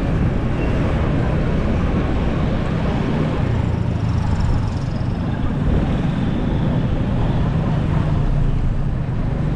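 Steady road noise of a motorcycle under way: the engine running and wind rushing over the microphone, with no let-up.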